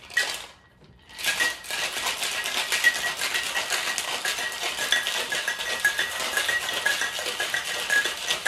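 Ice rattling in a cocktail shaker shaken hard to chill a Jungle Bird cocktail, a fast, steady rattle that starts about a second in.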